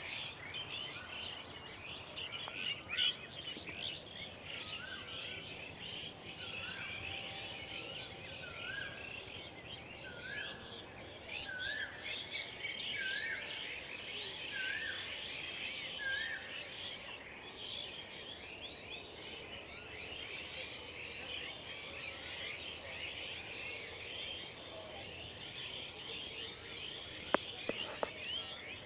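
A dense chorus of many small birds chirping and twittering over one another without a break. For a stretch in the middle, one bird repeats a short note with an upward hook about once a second, eight times or so, and a couple of sharp clicks come near the end.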